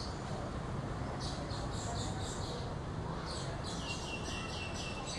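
Birds chirping in quick series of high repeated notes, about four a second, over a steady low background rumble.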